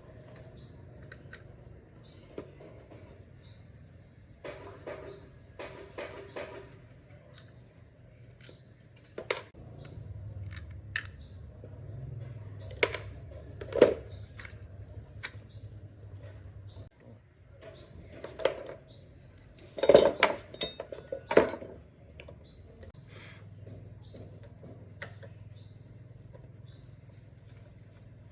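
A small bird repeating a short rising chirp about once a second throughout. Over it, bursts of metal clinks and knocks from parts and tools being handled, loudest about two-thirds of the way through.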